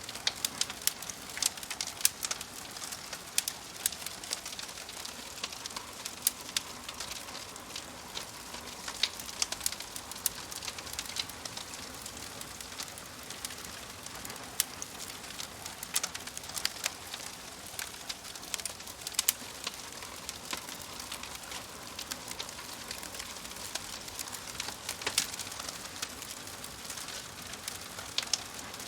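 Wood fire in a wood-burning stove crackling: irregular sharp pops and snaps, several a second and some louder than the rest, over a soft steady hiss of burning.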